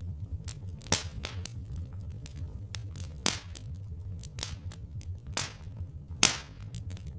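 Wood fire crackling, with irregular small clicks and three louder pops, over a steady low rumble.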